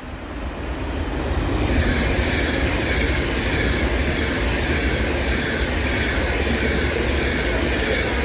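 Class 390 Pendolino electric train passing through at speed: a rush of wheel and air noise that builds over the first two seconds, then holds loud and steady with a deep rumble and faint high whistling tones.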